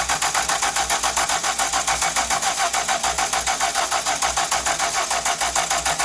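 1969 Chrysler Newport's 383 V8 cranking over on the starter in a fast, even rhythm without catching, after a squirt of fuel.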